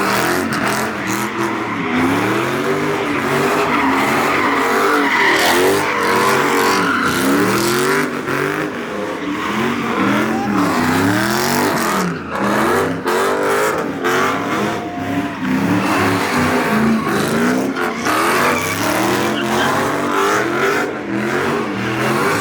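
A car engine revving up and down over and over, with its tyres screeching as it spins them in a slide.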